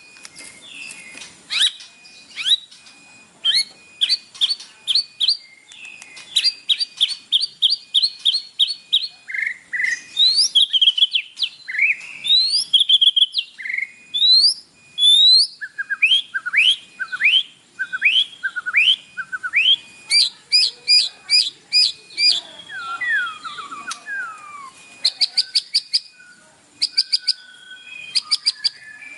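White-rumped shama singing a fast, varied song: rapid runs of short repeated chirps alternating with rising whistled notes and trills, the phrase changing every few seconds.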